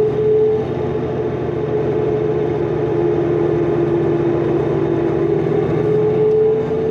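Cummins ISL inline-six diesel engine of a 2005 New Flyer D40LF transit bus running under way, with a steady whine over the engine drone; the whine dips slightly in pitch midway and rises again near the end.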